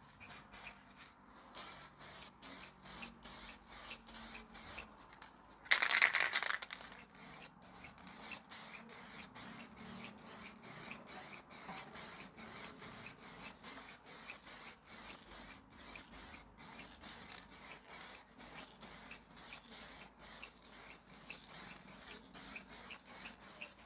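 Spray of clear coat hissing onto a sanded headlight lens in short, evenly spaced pulses, about two a second, as a light first coat goes on. About six seconds in there is one louder, longer burst.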